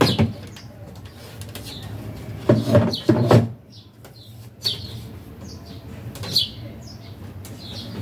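Small birds chirping, short high falling notes repeated every second or so, with a few louder knocks about two and a half to three and a half seconds in.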